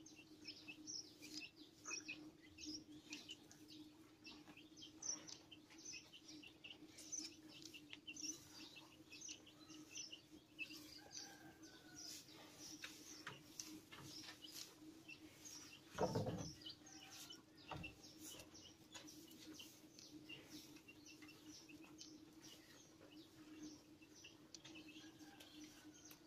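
Small birds chirping on and off, quietly, over a faint steady low hum. About two-thirds of the way through there is one brief, louder low sound.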